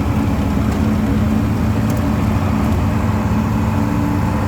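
Two-stroke outboard jet motor of a jon boat running steadily with a constant low drone.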